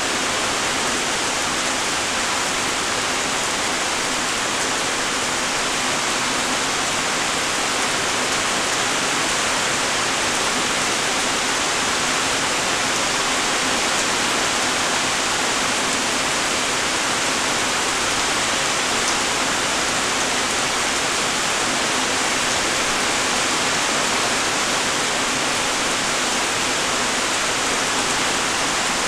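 Light rain falling steadily: an even hiss of raindrops that does not change.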